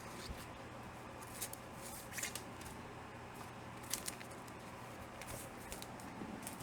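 Comic books being handled and put away: faint rustling with a few light, sharp clicks and taps scattered through, over a low steady room hum.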